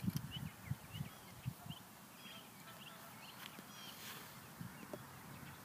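Faint bird chirps throughout, with a few soft low thumps in the first two seconds and a faint click about four seconds in.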